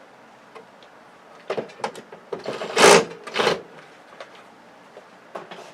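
Clicks and handling noises from work on a flat-screen TV's plastic back cover, with two short, loud, noisy bursts about three seconds in.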